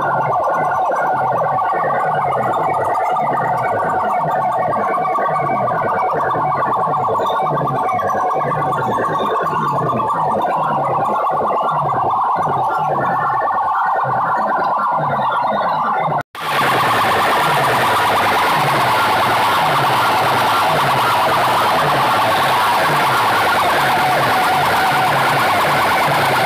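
Competition DJ sound system playing dance music at very high volume: a siren-like wail over a steady, repeating bass beat. About 16 seconds in it cuts out for an instant and comes back as a harsher, noisier mix.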